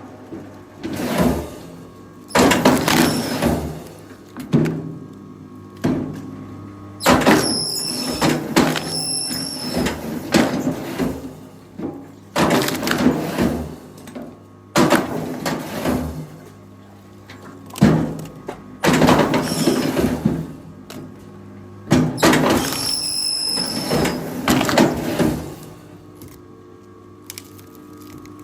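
Wood cracking and logs knocking in repeated bursts of a second or two, over the steady hum of a running machine engine.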